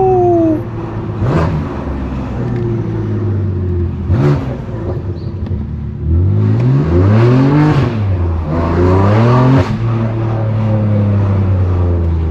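Straight-piped S55 twin-turbo inline-six of a 2018 BMW M3 Competition. It runs steadily with two short throttle blips in the first few seconds, then revs up twice in the middle. The second pull cuts off sharply as the throttle is lifted.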